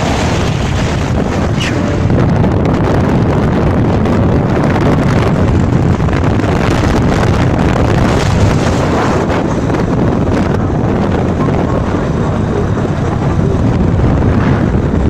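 Loud, steady wind buffeting the microphone, a dense low rushing noise with no clear engine tone.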